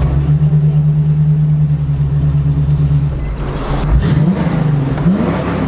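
Chevrolet 350 small-block V8 of a 1981 Camaro running at a steady note, then revving up twice near the end.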